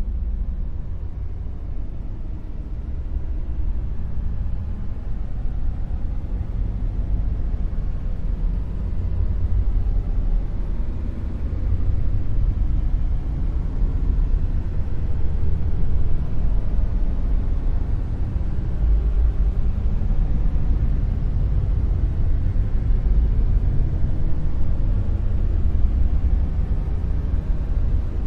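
Dark noise: a steady, deep rumble of noise, weighted heavily to the bass with little in the highs, growing slightly louder about twelve seconds in.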